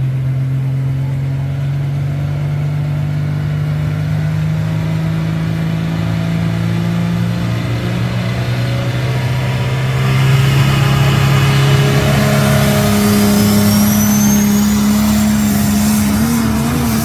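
Engine of a Dodge pro stock diesel pulling pickup running under load at steady pitch. About ten seconds in it gets louder and the pitch climbs, with a rising high-pitched whistle near the end.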